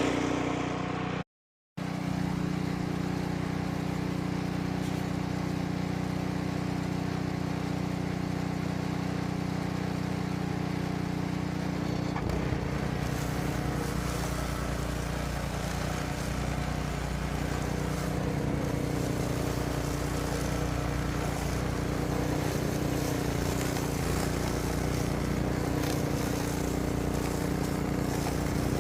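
An engine running steadily, cut off for a moment about a second and a half in.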